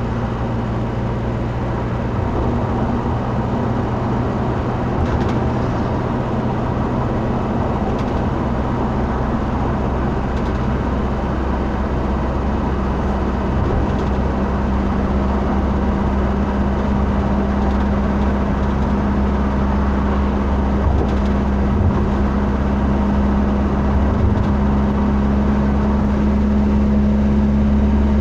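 Steady engine and road drone of a moving vehicle, with a constant low hum that steps slightly higher in pitch later on.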